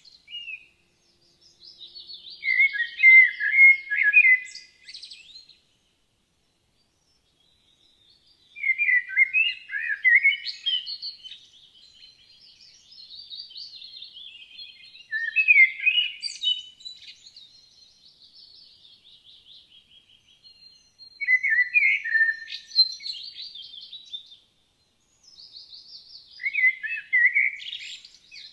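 Songbird singing in repeated phrases of quick chirping notes, each a few seconds long, with short pauses between.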